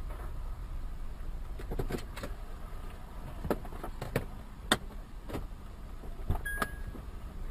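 Car driving, a steady low rumble, with a series of sharp clicks or knocks scattered through it and a brief high beep near the end.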